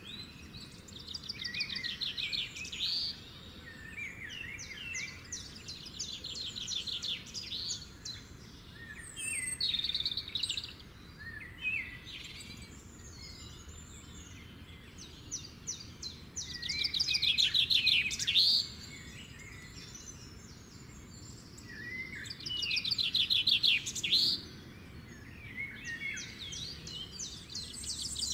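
Songbird singing: repeated phrases of a fast trill ending in a rising note, with scattered chirps between them over a faint steady hiss. The loudest phrases come about two-thirds of the way in.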